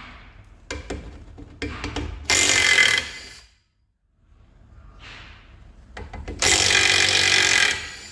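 Power tool undoing suspension bolts in two bursts, the second longer, each led in by a few clicks and rattles.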